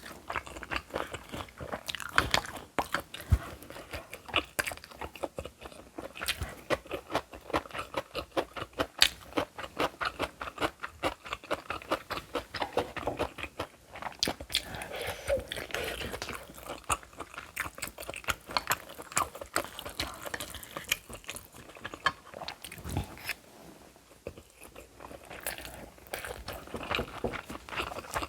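Close-miked chewing and crunching of food, a dense run of wet clicks and smacks from the mouth, easing off briefly a little after twenty seconds.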